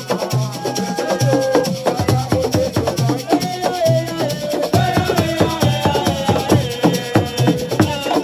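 Assiko music: dense, rapid hand-drum and rattle strokes over a steady low beat, with a voice singing long wavering notes.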